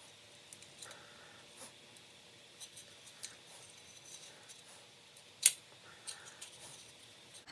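Gasket scraper working old gasket material off an engine cover's mating surface: faint, uneven scraping strokes, with one sharp click of metal on metal about five and a half seconds in.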